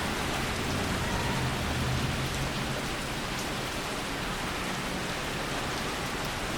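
Steady heavy rain falling, with a low rumble underneath that fades out about two and a half seconds in.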